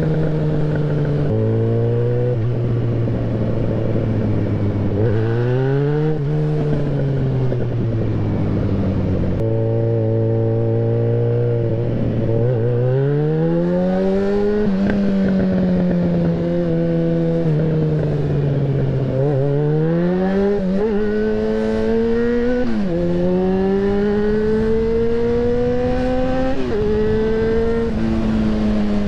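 Yamaha XJ6N's 600 cc inline-four engine heard on board while riding. The revs climb under acceleration and sink off the throttle, with several sudden drops in pitch at gear changes, over a steady rush of wind.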